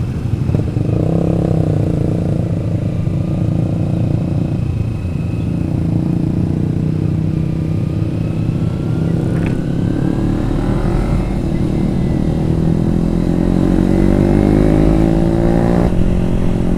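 Kawasaki Ninja 250FI's parallel-twin engine running under way, with wind and road rumble on the camera microphone. In the second half the engine pitch rises steadily over several seconds as the bike accelerates, then drops suddenly near the end.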